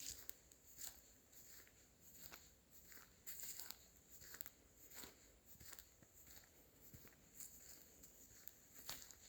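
Faint footsteps crunching on a forest floor, about two steps a second, each with a short crackle of dry leaves and twigs.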